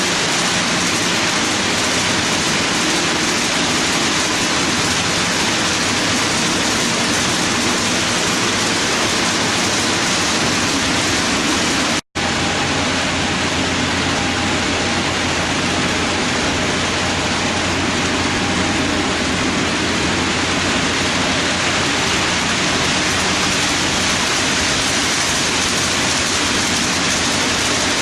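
HO-scale model train of three GP7 diesels and a long string of ice-bunker reefers rolling on the layout: a steady rushing rumble of wheels on rail. It drops out for an instant about twelve seconds in, and a steady low hum is stronger after that.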